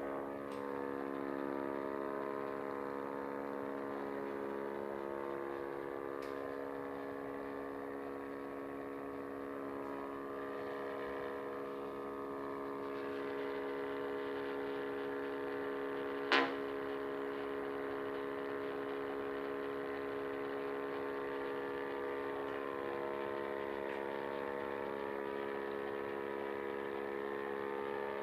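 Weird buzzing noise from upstairs, heard as a steady drone of several held tones, its source unknown. One sharp click about sixteen seconds in.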